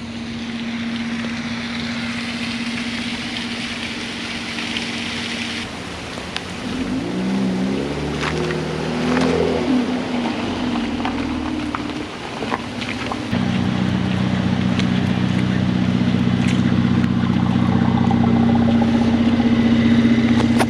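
Car engine running while driving, a steady hum over a hiss at first. Its pitch rises and falls about seven to ten seconds in, then it settles into a louder steady drone from about thirteen seconds.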